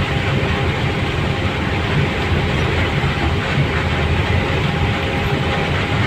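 Steady low rumble and running noise of a moving vehicle, unchanging in level, with a faint steady hum over it.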